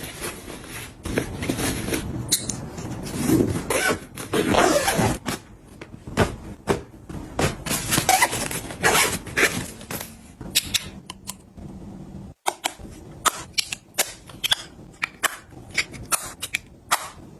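Handling sounds of objects being packed or put away: rustling and shuffling, then a run of sharp clicks and taps after an abrupt cut a little past two-thirds of the way through.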